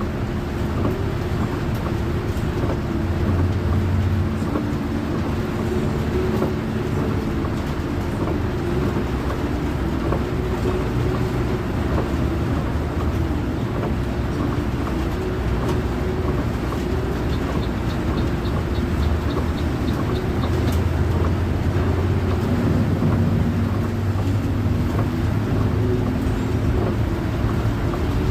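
Intercity bus driving: steady engine drone and road noise whose pitch shifts slightly as it goes. A short run of light, quick ticks comes a little past halfway.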